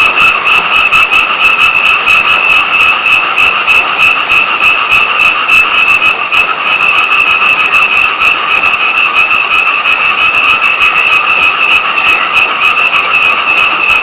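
A dense frog chorus, many frogs calling at once in a steady, unbroken din, with rain pattering underneath.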